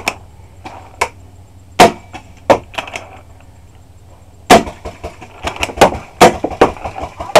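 Paintball markers firing: sharp single pops spaced a second or two apart, then a quick string of shots in the last couple of seconds.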